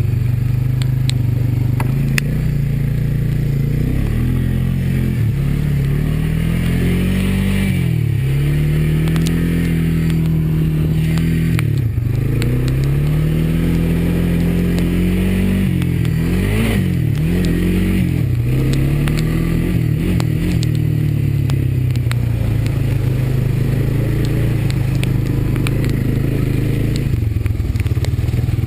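Honda ATV's single-cylinder four-stroke engine running under way, its pitch rising and falling repeatedly as the throttle is opened and eased off, with scattered clicks and clatter.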